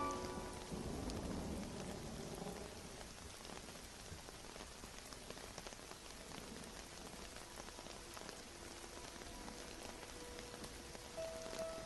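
Steady rain falling, with the low rumble of thunder dying away in the first two or three seconds. Faint sustained music notes come in near the end.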